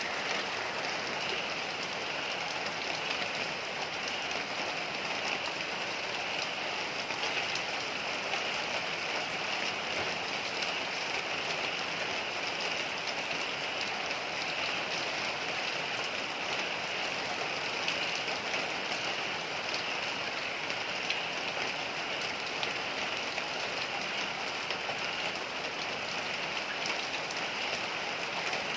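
Heavy rain falling steadily on surfaces, an even hiss with patter from the drops.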